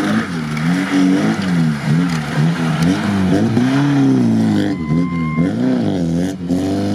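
Lada Niva's petrol engine revving up and down in quick, repeated throttle bursts, with one longer held rev about halfway through, as the driver works it through a tight muddy turn on an off-road course.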